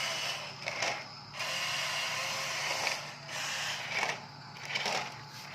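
Huina RC dump truck's small electric motor and gearbox whirring, stopping and starting in several bursts of up to a second and a half.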